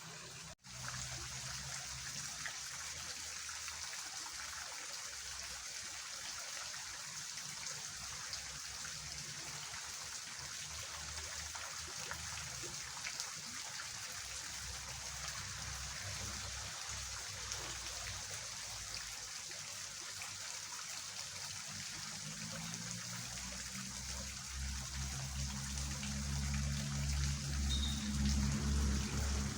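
Fast-flowing water rushing steadily through a rain-swollen drainage ditch. A low rumble builds over the last several seconds.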